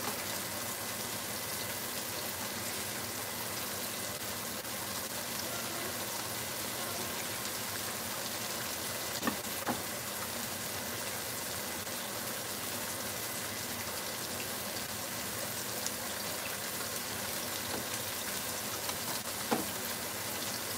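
Pork chops frying in a pan of oil: a steady sizzle, with a couple of light knocks about halfway through.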